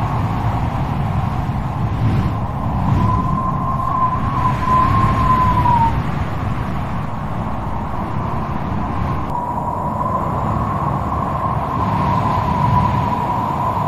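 Strong wind blowing in a low, gusty rumble, with a thin wavering whistle that comes in from about three to six seconds in and again from about nine seconds on.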